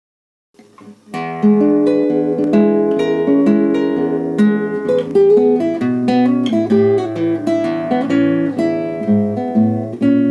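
Acoustic guitar music, strummed and picked, starting about a second in: the instrumental opening of a song.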